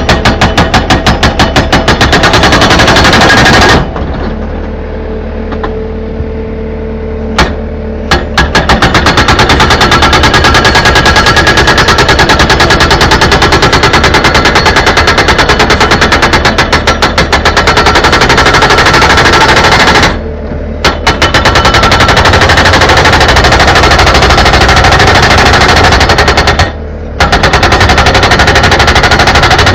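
Jackhammer breaking masonry in a fast, even run of loud strikes. It stops for about four seconds early in the stretch and for about a second twice later. A low steady hum runs underneath throughout.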